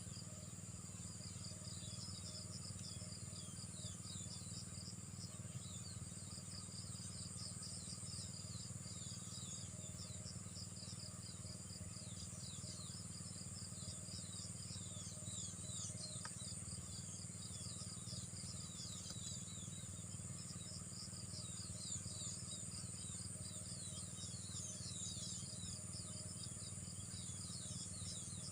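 Outdoor nature ambience: a steady high insect drone with rapid, repeated short chirps over it, and a low steady hum underneath.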